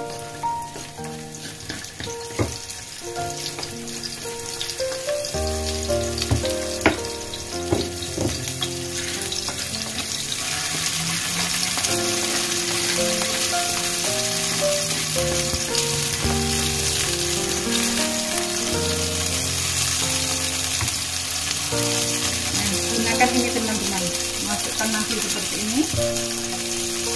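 Petai beans and ground chili paste sizzling in hot oil in a frying pan, the sizzle growing louder from about ten seconds in, with a few scrapes and taps of a wooden spoon against a mortar. Background music with a melody plays throughout.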